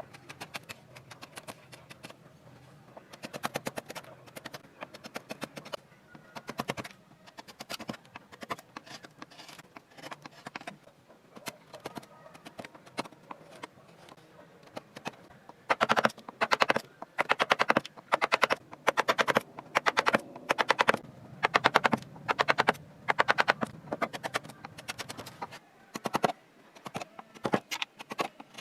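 Wood-carving tools working wood: bursts of rapid tapping and clicking, each lasting about a second. The bursts are sparse at first and become louder and more frequent about halfway through.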